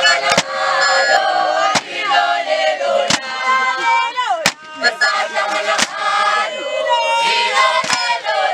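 A group of voices singing and chanting together in a traditional song, with sharp, loud percussive beats about every second or so.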